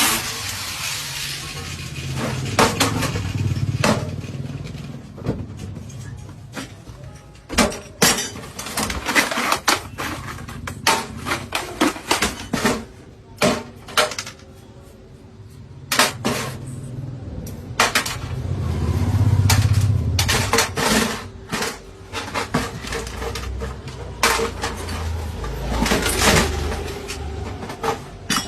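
Irregular clinks and knocks of hard objects striking each other, like hand tools working on metal, with a low hum at times.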